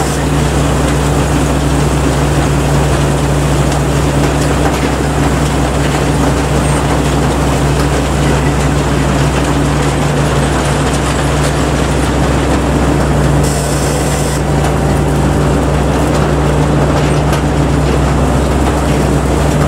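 Rice combine harvester running steadily in the field, its engine giving a constant loud drone with an even mechanical rattle over it.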